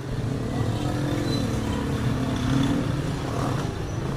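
Yamaha YB100's single-cylinder two-stroke engine running steadily.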